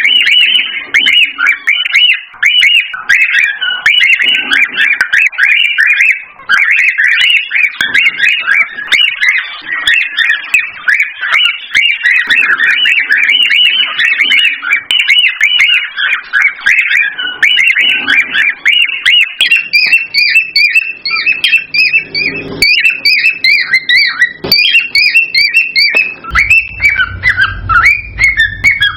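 Cockatiels chirping and warbling in a rapid, unbroken stream of short whistled notes. About two-thirds of the way through, a second, higher-pitched run of chirps joins in, and near the end a low hum comes in underneath.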